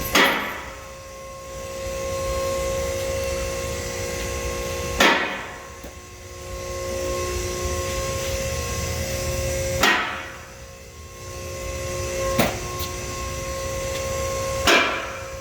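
Five sharp knocks, four of them about every five seconds with one extra near the end, over a steady mechanical hum carrying two held tones.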